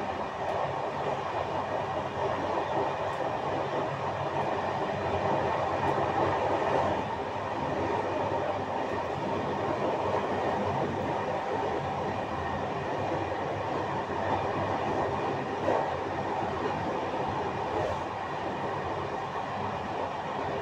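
Passenger train running along the line, heard from the back of the train: a steady rolling rumble, with a brief louder sound about three quarters of the way in.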